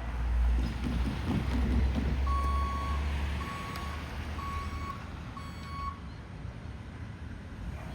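Backup alarm on a hi-rail Toyota 4Runner beeping four times, about once a second, over the low rumble of the vehicle's engine as it maneuvers onto the tracks.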